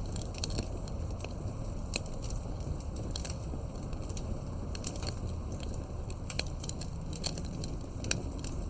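Campfire burning, wood crackling with frequent sharp pops a few times a second over a steady low rumble of flame.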